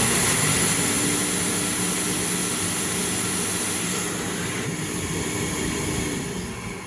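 Mitsubishi Jet Towel JT-16C-WM hand dryer blowing air at full power: a steady high rushing hiss with a low steady hum under it. Near the end the motor shuts off and the airflow winds down.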